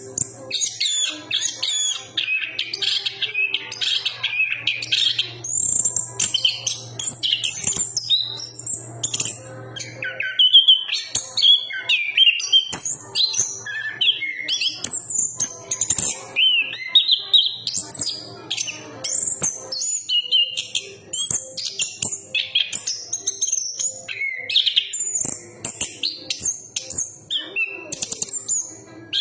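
Chestnut-capped thrush (anis kembang) singing a long, continuous, varied song of rapid high whistles, glides and clicking notes, with hardly a pause.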